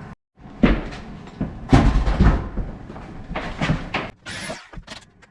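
Several loud knocks and scrapes, about a second apart, with a short hiss about four seconds in.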